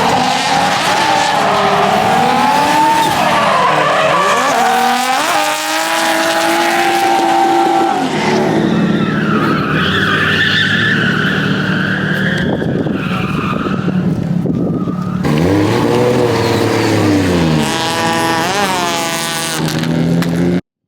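Drift cars sliding, with engines revving up and down hard and tyres squealing. The sound cuts off suddenly near the end.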